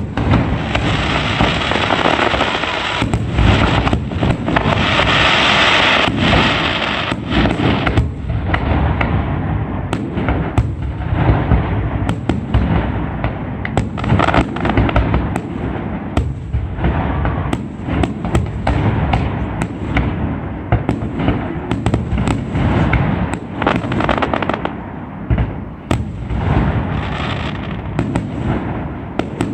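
Fireworks display at full intensity: a continuous barrage of sharp bangs from aerial shells and firecrackers, with a thick stretch of crackling a few seconds in.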